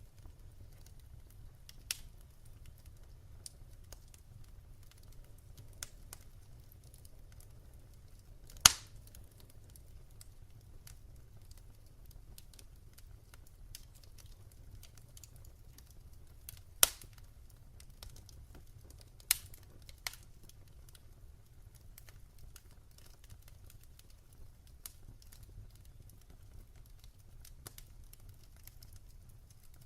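Wood fire in a fireplace crackling: scattered sharp pops and snaps over a faint low rumble, the loudest pop about a third of the way in and a few more past the middle.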